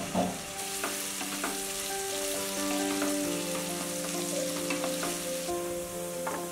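Cubed potatoes sizzling as they fry in mustard oil in a nonstick kadai, with a wooden spatula stirring them and knocking against the pan now and then. The sizzle comes up about half a second in.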